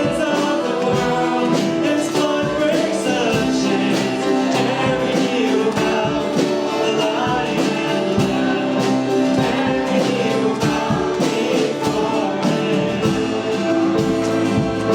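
Live worship music: voices singing over guitar and band accompaniment.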